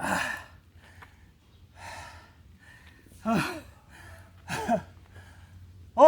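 A man breathing hard after a set of 50 push-ups to failure: loud gasping exhalations every second or so, several with a short falling voiced groan.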